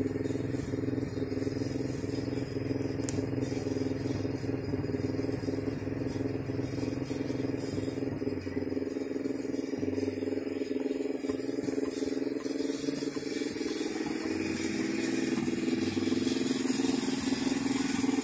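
A vehicle's engine running steadily as it drives slowly, growing a little louder near the end.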